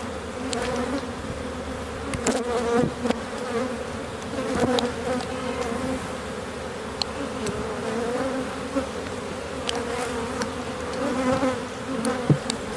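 A honey bee colony buzzing steadily around an opened hive during an inspection, a continuous hum. Short clicks and knocks sound now and then over it.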